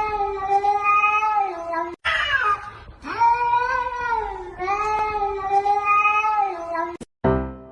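Domestic cat yowling in long, drawn-out meows, two in a row, then a short higher cry about two seconds in, and the same yowls again. Piano music starts near the end.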